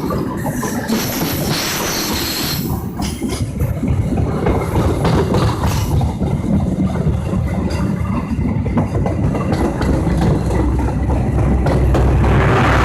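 Train running through the station on the tracks, its wheels clattering over the rail joints with a steady rumble. A deep low drone swells louder near the end.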